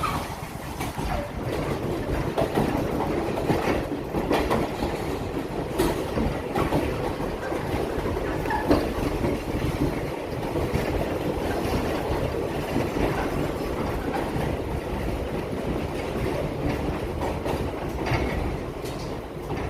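New York City subway train running through the station, a steady rumble with repeated clicks of its wheels over the rail joints.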